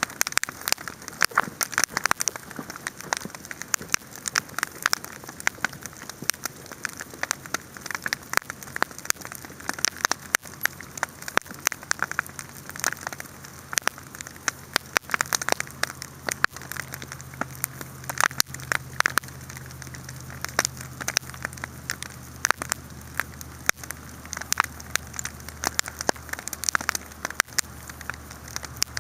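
Wood campfire crackling and popping, with dense, irregular sharp snaps over a soft steady hiss. A low steady hum joins about twelve seconds in.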